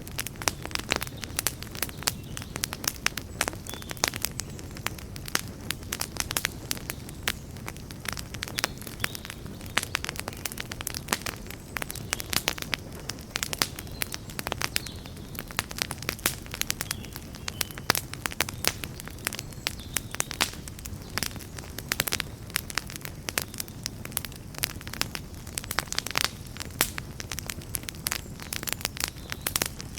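Wood campfire crackling: many irregular sharp snaps over a steady low rumble of burning.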